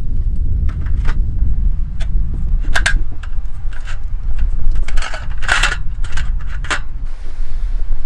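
Wind buffeting the microphone as a steady low rumble, under a series of light metallic clinks and scrapes, busiest about five to six seconds in.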